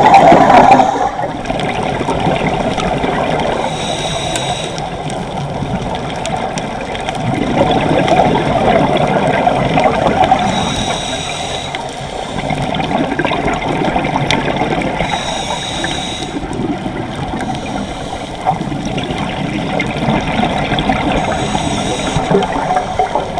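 Water churning and bubbling close around the camera, with a hiss that comes back every five to seven seconds.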